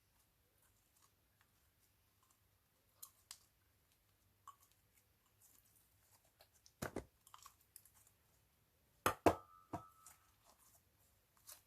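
Slime being squeezed and worked by hand, giving scattered small sticky clicks and pops. Louder crackles come about seven seconds in and again around nine seconds, the second with a brief squeak.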